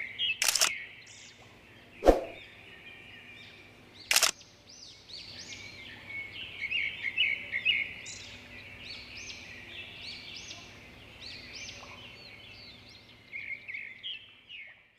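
Small birds chirping and twittering, many short calls overlapping. Three sharp clicks stand out in the first four or five seconds.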